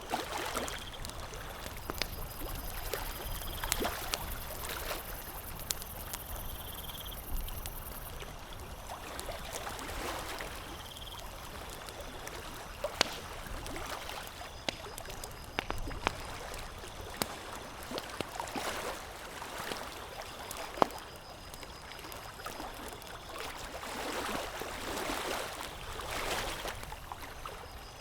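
Campfire crackling, with scattered sharp pops, over a steady wash of lapping water that swells and fades every few seconds.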